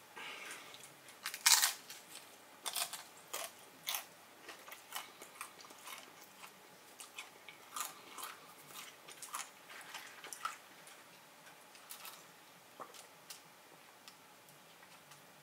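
Bite into a crunchy fried-shell taco, with the loudest crunch about a second and a half in, then repeated chewing with crisp crackles of the hard shell.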